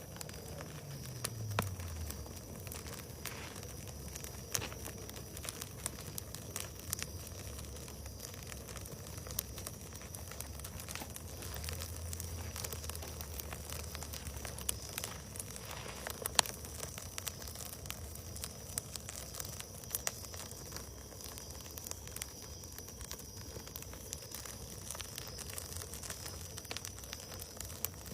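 Wood bonfire burning, crackling with irregular sharp pops and snaps.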